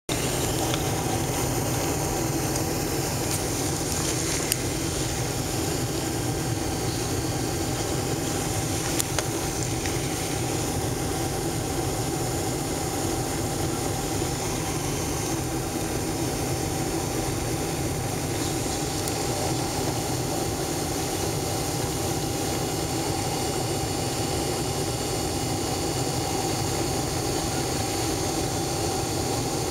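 Steady cabin noise of a Boeing 767-300 airliner in flight: an even drone of jet engines and rushing air with a constant hum in it. There are two small clicks, about four and nine seconds in.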